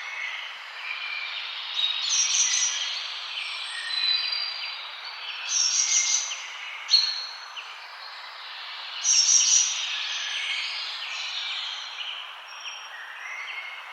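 Several small birds chirping and trilling over a steady background hiss, with louder bursts of song every few seconds and a single sharp click about seven seconds in.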